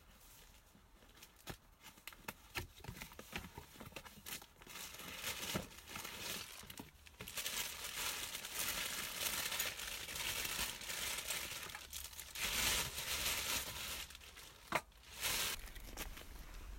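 Crinkling and rustling of something being handled, like packaging being opened, with scattered clicks and a sharp click near the end.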